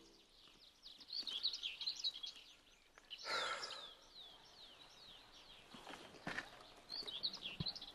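Birds chirping: many short, quickly falling calls, faint, with a brief harsher noisy sound about three seconds in.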